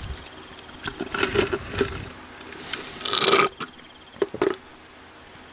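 Close-miked eating sounds: a series of short chewing bursts and clicks, the longest about three seconds in.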